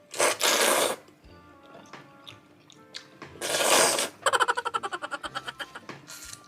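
Ramen noodles being slurped: two loud, airy slurps, the second breaking into a fast sputtering run of short pulses as the slurp stalls and fails to keep going.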